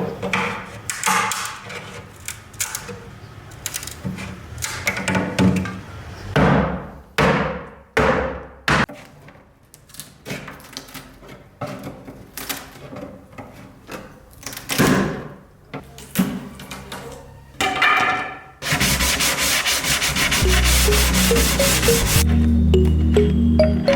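Sandpaper rubbing on wood in repeated, irregular strokes. Near the end a steadier, denser rasp takes over, with background music coming in.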